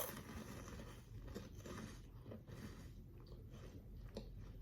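Crunching and chewing of a freeze-dried hard candy, a puffed Jolly Rancher-style candy, in the mouth: faint, irregular crunches.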